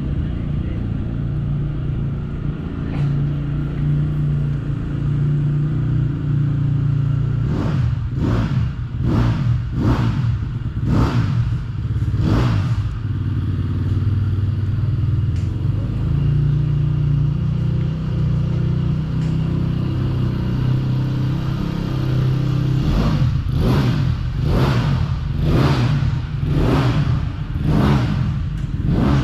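Motocross bike engine revved in short throttle blips, about one a second, in two runs: around a third of the way in and again near the end. Under the blips there is a steady low engine hum.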